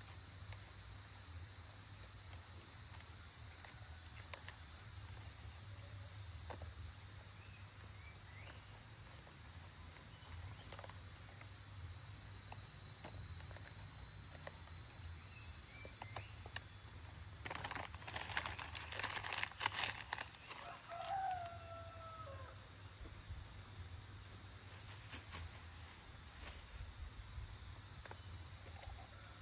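Steady high-pitched chirring of crickets over a low rumble. A burst of rustling and clatter comes about two thirds of the way in, followed by a short animal call.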